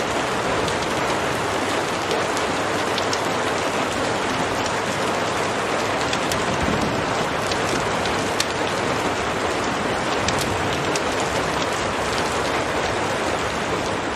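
Heavy rain falling steadily, with scattered sharp crackles and pops from a wood fire in a fireplace.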